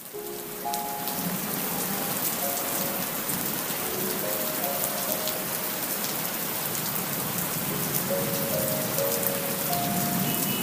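Steady rain falling, an even hiss with fine drop ticks, while a few soft musical notes sound over it in small groups now and then.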